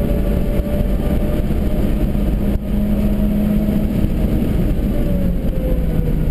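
Stage 1 Suzuki Swift's engine heard from inside the cabin, pulling at speed: its note holds and climbs slightly, then falls away near the end, over steady road and wind noise.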